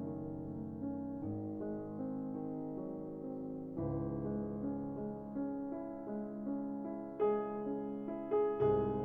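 Background piano music: slow held chords that change every second or so, with a few new chords struck near the end.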